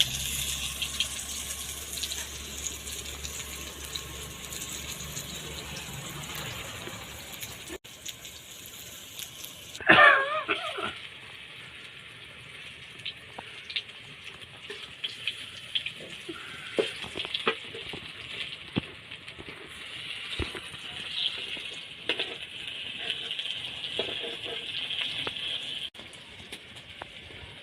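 Pieces of steamed colocasia-leaf roll frying in hot oil in a pan, a steady sizzle with scattered clicks and scrapes as they are turned. About ten seconds in, a short, loud warbling tone stands out over the sizzle.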